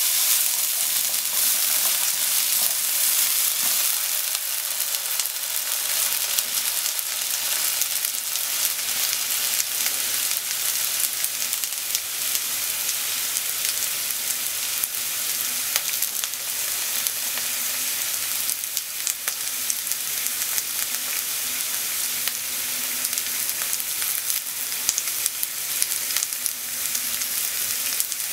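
Sliced potatoes frying in oil in a frying pan: a steady sizzling hiss with scattered crackles. Wooden chopsticks stir the potatoes near the start.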